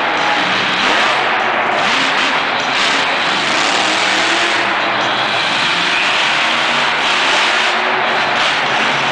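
Grave Digger monster truck's supercharged V8 engine revving hard and loud, its pitch rising and falling as the throttle is worked.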